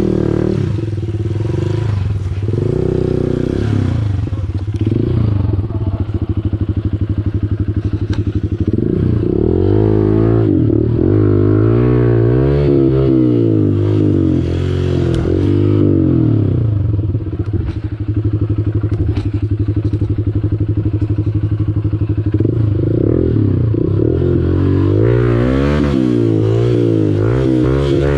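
Honda CRF150L's single-cylinder four-stroke engine running under load off-road. The revs hold steady for stretches and rise and fall quickly in between, with some clatter.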